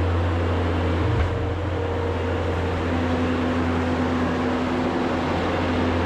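Skid steer engine running steadily under the operator, a constant low hum with a small change in tone about a second in.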